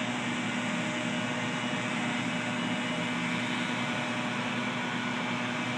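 Steady mechanical hum of a motor or engine running at a constant pitch, under a broad hiss.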